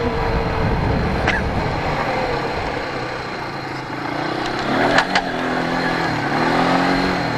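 Polaris ATV's air-cooled engine running under way, its pitch rising and falling with the throttle in the second half, with wind rumble on the microphone at first. A few sharp clicks about a second in and again about five seconds in.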